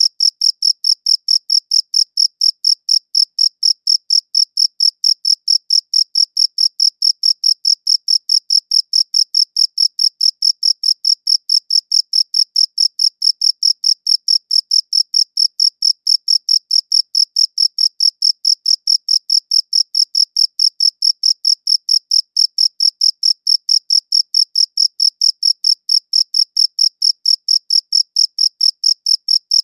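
Cricket chirping: a steady, high-pitched chirp repeated evenly about three to four times a second, without a break.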